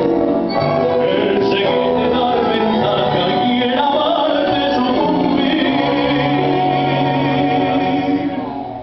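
Recorded Argentine tango song with a male singer, closing on a long held final chord that fades out near the end.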